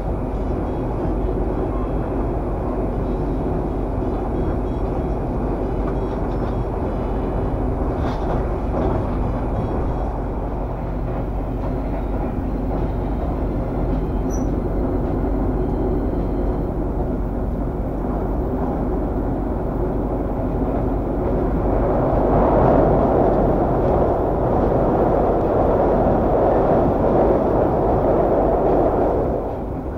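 Steady rumble of a passenger train coach running at speed, heard from inside at the window, with wheels rolling on the rails. About three-quarters of the way through it grows louder as the train crosses a steel truss bridge, and it eases off again near the end.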